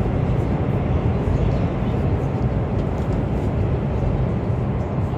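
Steady low rumble of a CRH1A-A high-speed electric multiple unit running at speed, heard inside the passenger cabin.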